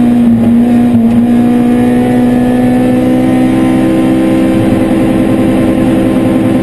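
Opel Astra GSI 16V rally car's 16-valve four-cylinder engine heard from inside the cabin, pulling hard under acceleration with its pitch climbing slowly and steadily.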